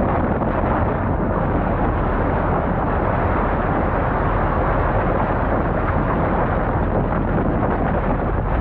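Strong storm wind roaring steadily and buffeting the microphone, in a tornado.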